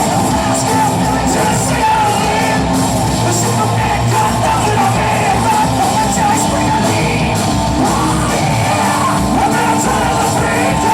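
Live rock band playing loudly, with a singer's vocals over the band.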